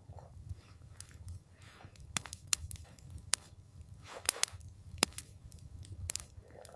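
Campfire crackling: irregular sharp pops and snaps, about eight of them, over a steady low rumble.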